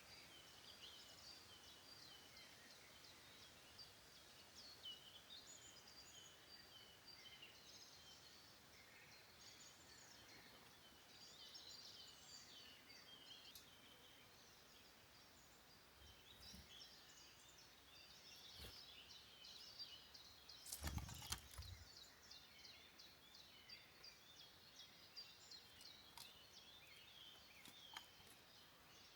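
Faint woodland birdsong: many small birds chirping and singing at once, with a few light clicks and a brief muffled thump about twenty seconds in.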